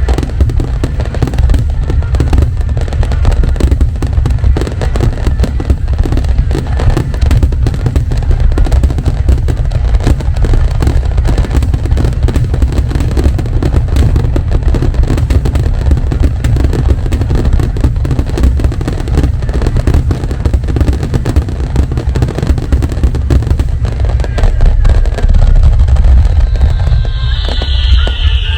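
Aerial fireworks in a dense finale barrage: shell bursts booming and crackling one on another without a break. Near the end a high whistle falls in pitch.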